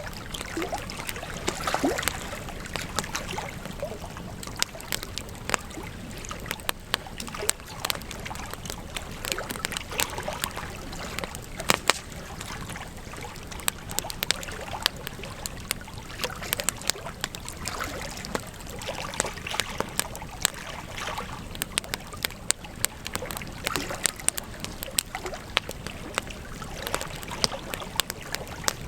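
Campfire crackling: frequent irregular sharp snaps and pops over a steady hiss.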